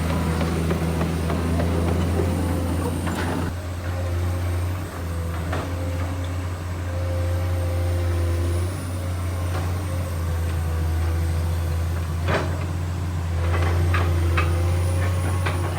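Komatsu PC210 hydraulic excavator's diesel engine running steadily under load, with a fainter steady whine above it and a few sharp knocks and hisses from the machine working, the loudest about twelve seconds in.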